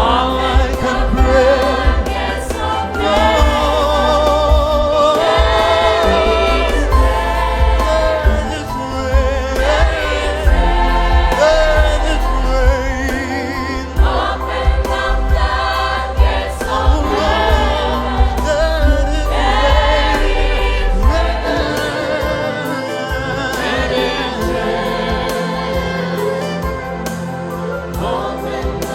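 Gospel worship music: a choir singing over instrumental backing with a steady bass.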